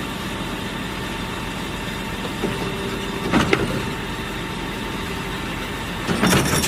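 Steady engine-like idling hum, broken by two short clattering knocks, one about halfway through and one near the end.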